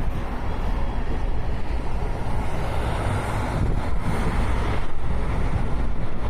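Passenger train running along the track, heard from on board: a steady low rumble.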